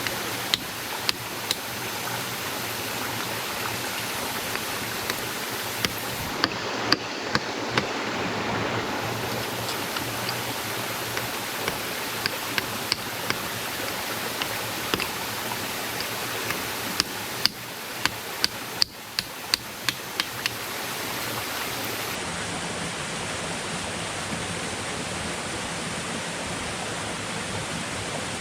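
Steady rushing water noise, with sharp knocks or clicks scattered through it and a quick run of them about two-thirds of the way in.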